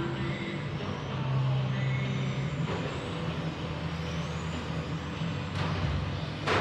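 Electric RC race cars running on a track, their motor whines rising and falling as they pass, over a steady low hum. A few sharp knocks break in, the loudest right at the end.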